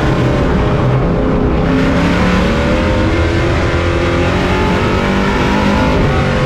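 Race truck's engine heard on board. The revs drop at the start, then climb again about a second and a half in and hold at speed, the way an engine sounds lifting into a turn and accelerating out.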